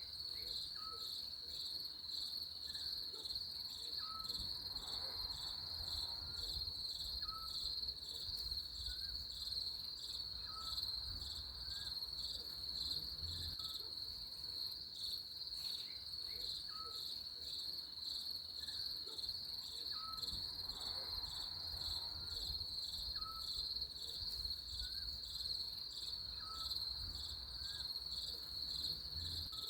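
Crickets chirping in a steady, rapidly pulsing high trill, with faint short chirps every second or two and a low rumble underneath.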